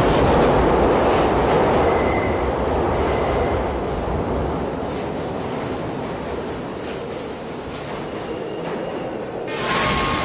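Subway train rushing through the station with its wheels squealing, loud at first and easing off over several seconds, with a fresh burst of noise near the end.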